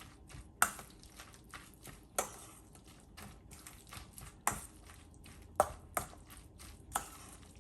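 Kitchen utensils clicking and tapping: about half a dozen sharp knocks at irregular intervals among fainter ticks, as food is worked in a bowl.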